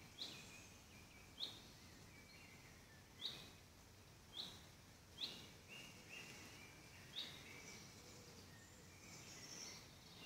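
Woodland birdsong: a small bird repeating short, high, falling notes every second or two, over a faint steady background, with another higher-pitched bird joining near the end.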